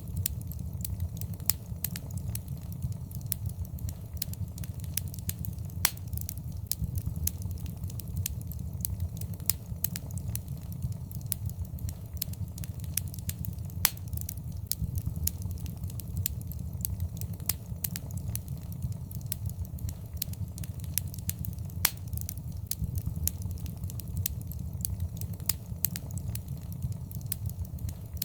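Fireplace fire burning steadily, with irregular sharp crackles and pops over a constant low rumble of the flames.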